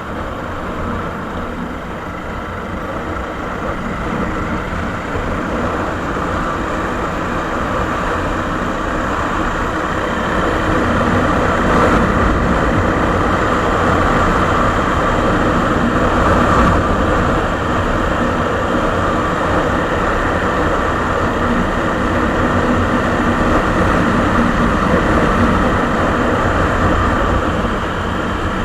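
Suzuki Savage 650's single-cylinder four-stroke engine running through its original exhaust muffler, growing louder over roughly the first ten seconds and then holding steady.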